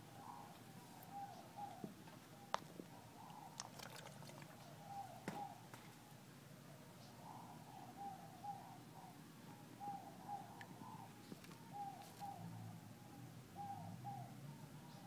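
Faint bird calling in the background: short cooing notes that repeat in pairs and threes about once a second. A few sharp clicks come in between.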